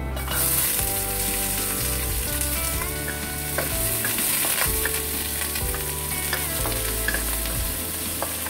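Sliced shallots and garlic sizzling in hot oil in a stainless steel wok, starting suddenly as they go in: the first sauté of the aromatics. A spatula scrapes and clicks against the wok as they are stirred.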